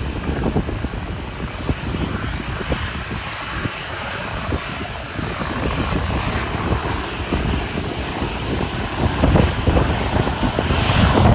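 A departing airliner's engines running at takeoff power, a steady broad noise that grows louder toward the end. Gusty wind buffets the microphone throughout with irregular low thumps.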